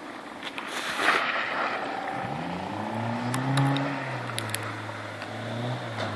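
A rally hatchback's engine accelerating on a dirt rallycross course: its note climbs in pitch, peaks, then settles back to a steady drone, with a brief rush of noise about a second in and a few sharp clicks in the middle.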